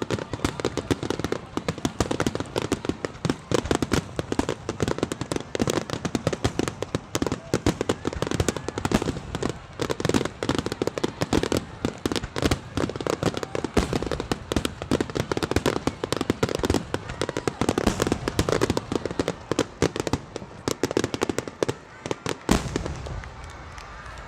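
Fireworks grand finale: a dense, rapid barrage of shells bursting and crackling with no break, which stops abruptly shortly before the end.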